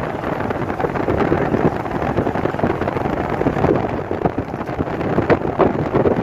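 Coal hopper cars rolling past close by: a steady rumble with sharp clacks of steel wheels over the rail, several in quick succession near the end, and some wind on the microphone.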